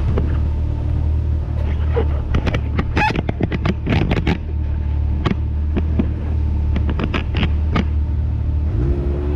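Can-Am X3 side-by-side's three-cylinder engine running low and steady while crawling over rock, with a run of sharp knocks and clatters from tires and chassis on the rocks. The revs rise near the end.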